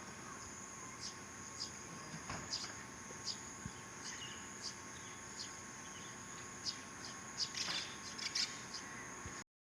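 Outdoor insects droning steadily at a high pitch, with short chirps scattered through it. The sound cuts off abruptly near the end.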